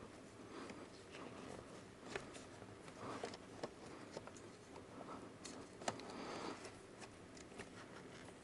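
Faint handling noises from work on car wiring: scattered small clicks and rustling, with a sharper click about six seconds in.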